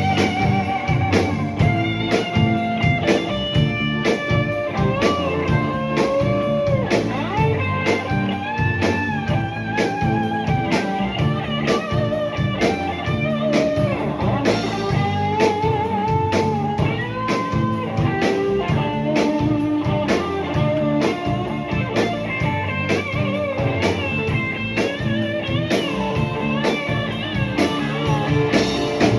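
Rock band playing a slow blues-rock song, with an electric guitar lead of bent, wavering notes over steady drum beats.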